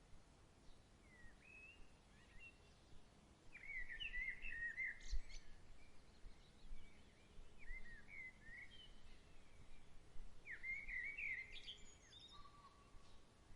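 Songbirds calling in short, repeated phrases of rising, warbling chirps over a faint outdoor background hiss.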